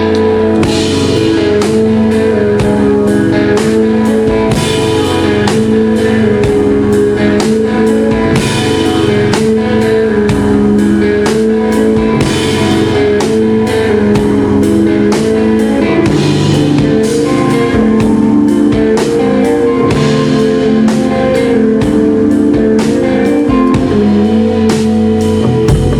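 A rock band playing an instrumental passage live, with guitars holding steady chords over a drum kit keeping a steady beat of about two hits a second.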